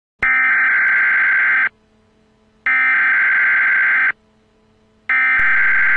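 Emergency Alert System SAME header: three bursts of digital data tones, each about a second and a half long, with about a second of silence between them. This coded header opens an EAS alert.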